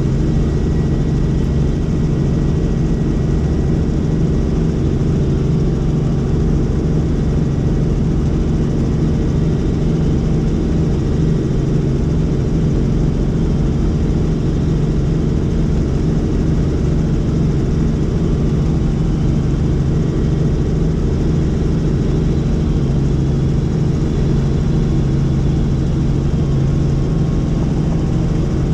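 Helicopter in flight: a steady, even drone of engine and rotor, heaviest in the low end, holding constant without change.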